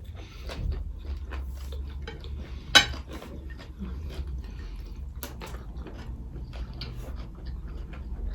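Close-miked eating sounds of chewing a chicken roll: many small wet clicks and mouth sounds, with one sharp click about three seconds in.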